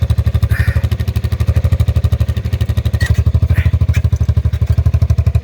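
Yamaha Badger 80cc ATV engine idling steadily through its exhaust, an even, rapid train of exhaust pulses.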